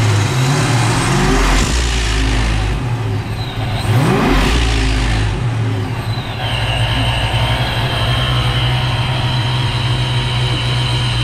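Boosted Ford V8 engine revved twice with quick rising throttle blips, each followed by a rushing hiss as the blow-off valve vents, then settling to a steady idle about six seconds in. The blow-off valve has just been fitted with a stiffer spring to stop it bleeding off boost at high rpm.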